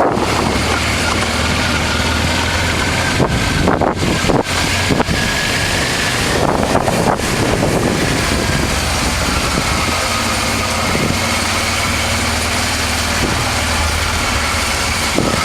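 1988 Honda Transalp's V-twin engine running steadily at low road speed, heard from on the bike. There are a few brief gusts of wind noise on the microphone in the first half.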